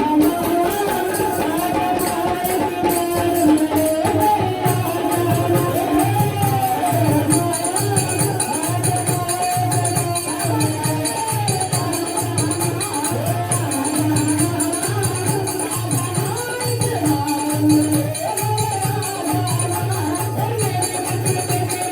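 Hindu devotional kirtan bhajan sung to a steady hand-drum beat with a jingling tambourine.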